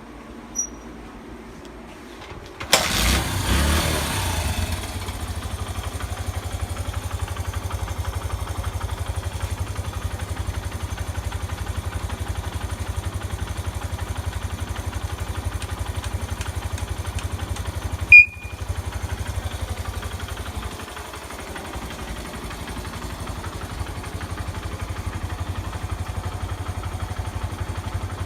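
Honda Ape 50's single-cylinder four-stroke engine starting about three seconds in, then idling with a steady rapid beat. A single sharp click is heard about two-thirds of the way through.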